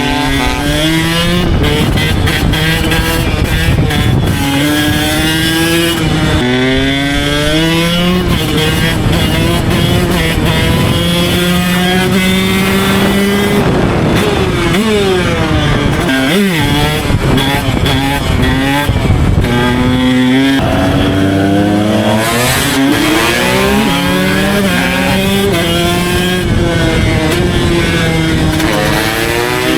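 Two two-stroke Husqvarna dirt bikes, a 300 with a Pro Circuit R304 silencer and a 125, running together and being revved over and over, the engine pitch rising and falling between idles. A sharp rev up and back down comes about halfway through.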